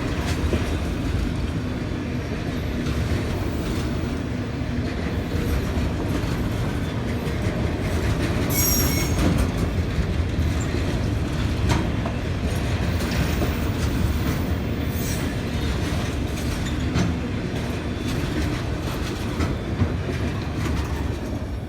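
CSX freight train of autorack cars rolling past, a steady heavy rumble with wheels clacking over the rail joints. A brief high wheel squeal rises about eight to nine seconds in.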